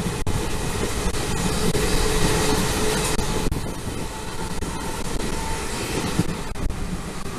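A passenger train running along the track, a steady rumble and rush of wheel and track noise heard from inside a coach.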